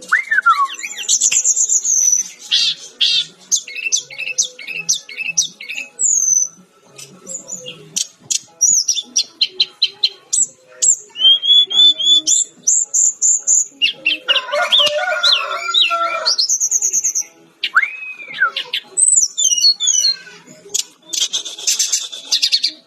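Sikatan-rimba dada-coklat (a jungle flycatcher) singing a fast, varied song of high whistles, trills and rapid chattering notes, with a harsher chattering burst a little past the middle.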